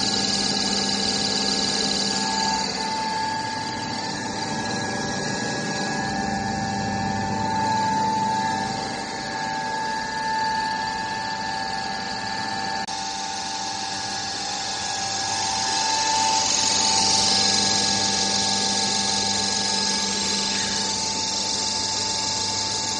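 Floating-pellet extruder machine running, a steady mechanical hum with a few sustained whining tones that shift slightly partway through.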